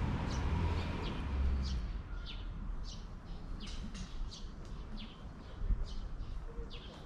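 Small birds chirping in many short, quick calls. A low rumble fades out about two seconds in.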